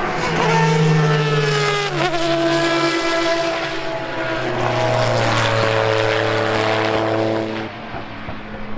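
Racing car engines running at high revs, each holding a steady note. One note dips briefly about two seconds in, and a second, lower engine note comes in about halfway through and drops away near the end.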